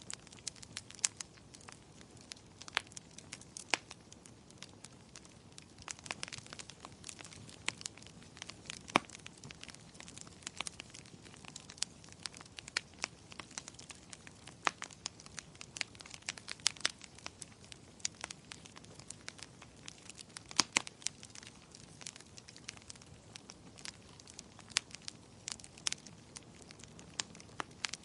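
Fire in a fireplace crackling: irregular sharp pops and snaps, a few much louder than the rest, over a soft steady hiss.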